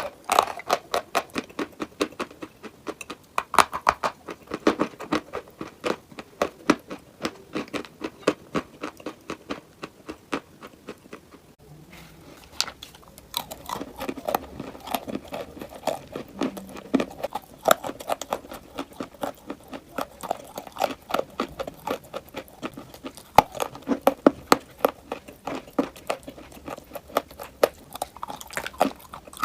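A person biting and chewing crunchy chalk and clay: rapid, crisp crunches several times a second, easing off briefly about ten to twelve seconds in before the chewing picks up again.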